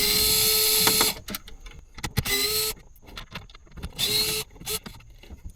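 Cordless power screwdriver running in short bursts, a steady motor whine with hiss: one about a second long at the start, then two shorter bursts around two and four seconds in, backing out center console screws.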